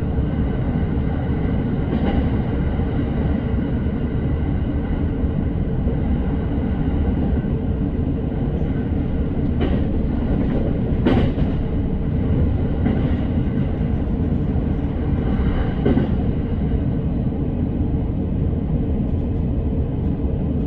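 Electric commuter train running, heard from inside the carriage: a steady rolling rumble with a faint steady hum, broken by a few sharp clicks from the wheels passing rail joints.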